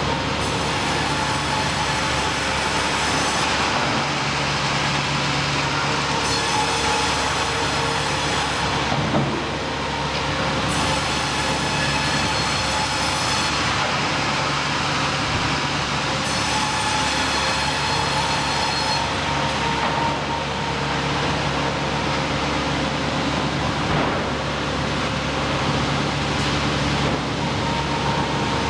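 Sawmill machinery running steadily, a mechanical drone with a high ringing whine that comes and goes in spells of about three seconds.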